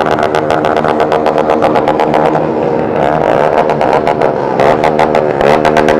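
Small motorcycle engine running at low speed with a fast, even pulse, its pitch dipping and rising a couple of times as the throttle changes.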